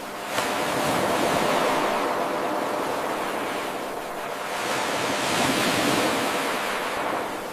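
Ocean surf washing in and out: the noise swells, eases around the middle, and swells again. It jumps in suddenly about half a second in, where the 8-second recording loops back to its start.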